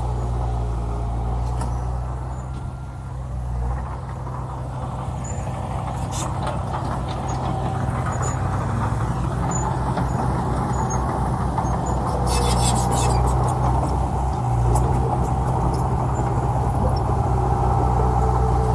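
Heavy diesel earthmoving machinery running at a work site, a deep steady engine drone with a high whine over it. The engine dips briefly a few seconds in, then grows louder about twelve seconds in, with a short rattle of metal clanks.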